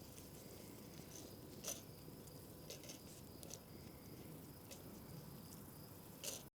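Faint campfire crackling: a few short sharp pops over a low hiss, with a faint steady high-pitched trill behind. The sound cuts off suddenly near the end.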